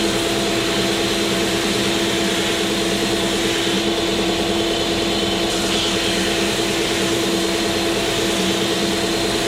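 Electric motor-driven machine running steadily, a constant whine and hum over a broad rushing hiss, with no change in pitch or level.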